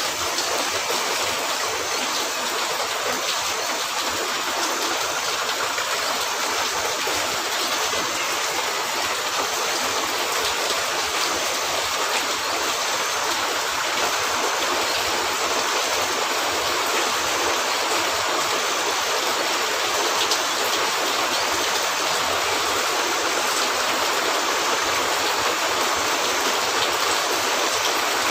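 Steady heavy rain on a cabin roof, an even rushing hiss that does not let up, with a few faint ticks here and there.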